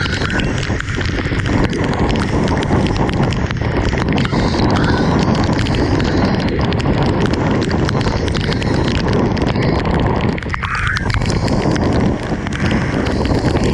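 Heavy rain falling steadily, with the sharp ticks of many close drops striking a hard surface.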